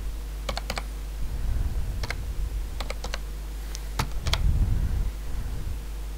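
Computer keyboard keystrokes in irregular clusters of sharp clicks, as an e-mail address is typed in, over a low steady hum.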